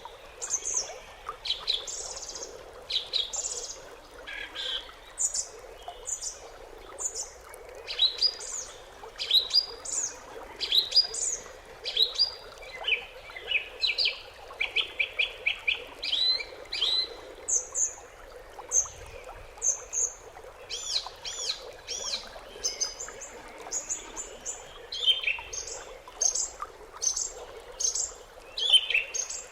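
Songbirds singing and chirping in a dense run of short, high whistled notes, with a quick trill of evenly repeated notes about halfway through.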